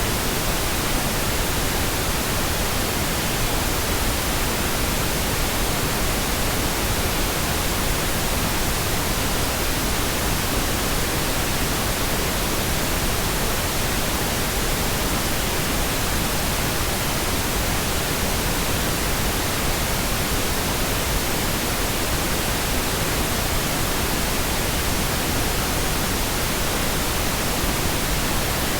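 Steady pink noise: an even, unchanging hiss spread across the whole range of pitch, with no events or breaks.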